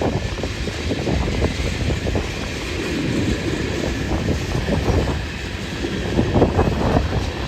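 Train rolling along the rails: a steady low rumble with irregular clanks and clacks from the wheels and cars.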